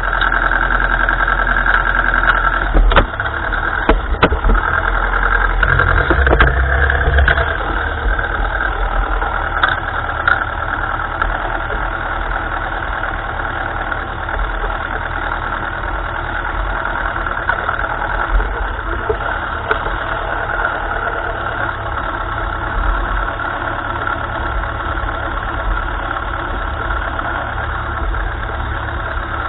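1955 Ferguson tractor's engine running steadily, with a few sharp knocks a few seconds in; it is a little louder for the first several seconds and then settles to an even run.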